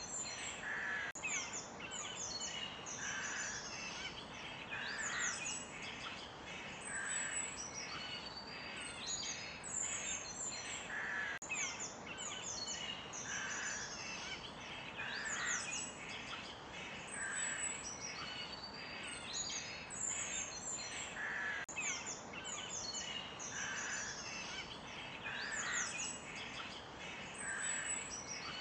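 Chorus of forest birds chirping and singing over a steady background hiss, with many quick high twitters and one lower call repeating every couple of seconds.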